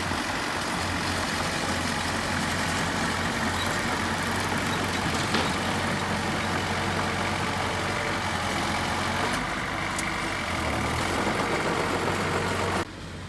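Diesel engine of heavy construction machinery running steadily with a low hum and a single brief knock about five seconds in. The sound cuts off suddenly near the end, leaving a quieter background.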